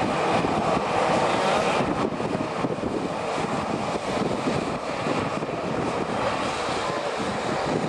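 Airliner engine noise: a steady, dense rushing sound of a passing or taxiing airplane that eases slightly in loudness.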